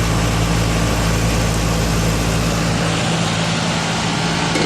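Newly installed Goodman 3-ton split-system condenser running just after startup: a steady electrical hum from the compressor over the whoosh of the condenser fan. The lowest rumble drops away about three seconds in, and there is a small click near the end.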